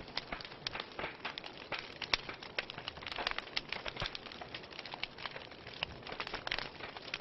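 Wood fire burning in a fireplace, logs crackling with a dense run of irregular sharp pops and snaps over a steady hiss of flames.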